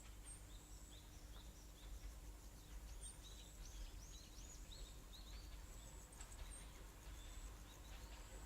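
Faint bird song: quick runs of short, arched chirps, busiest in the middle of the stretch, over an otherwise near-silent background.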